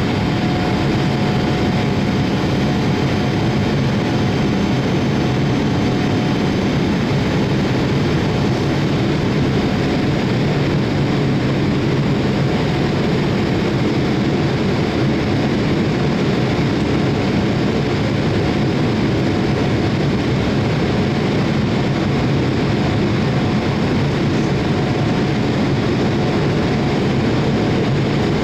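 Boeing 787-8's Rolls-Royce Trent 1000 jet engines running at steady power: an even, unbroken engine noise, strongest in the low range, with no change in level.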